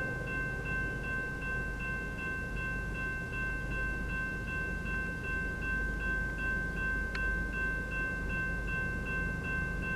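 Freight train rolling past with a low, steady rumble while a railroad grade-crossing bell rings rapidly, about three strokes a second.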